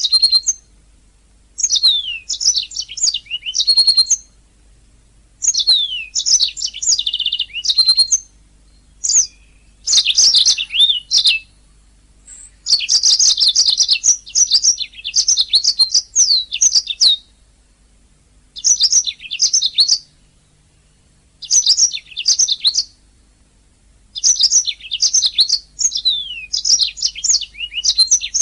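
Domestic canary singing: bouts of rapid high trills and sweeping whistles, each lasting one to three seconds, with short pauses between them.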